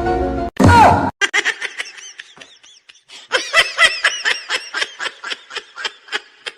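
Laughter in a long run of quick, pitched bursts, about four a second, growing louder about three seconds in. It is preceded in the first second by a brief held tone and a falling glide.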